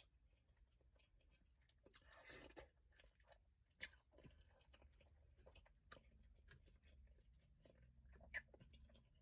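Faint close-up eating sounds of crawfish boil: chewing, with scattered sharp clicks and a longer crackling crunch about two seconds in.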